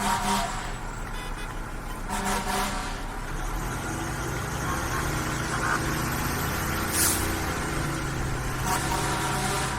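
Fire truck's engine running as the truck drives, its pitch rising through the middle as it gathers speed, with a brief hiss about seven seconds in.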